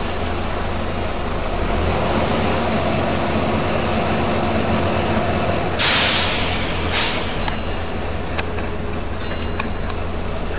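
Volvo B9TL double-decker bus running with a steady engine drone, then a loud burst of compressed-air hiss about six seconds in and a shorter hiss a second later, followed by a few sharp clicks.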